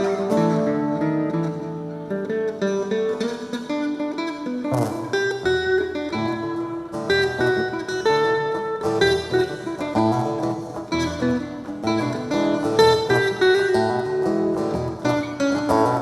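Acoustic guitar playing, a run of plucked notes and chords.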